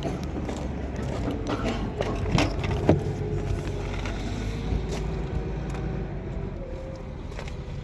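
Steady low background rumble with a few knocks and clicks about two to three seconds in, the sharpest near three seconds.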